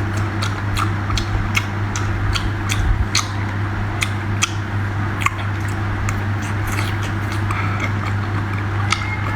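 Close-up sounds of a person eating seafood: irregular wet chewing and mouth clicks over a steady low hum.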